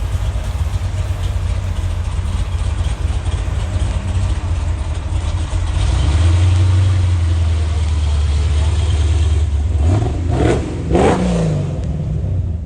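A car engine running with a steady low sound that gets louder about halfway through, then revved twice near the end, the pitch rising and falling each time.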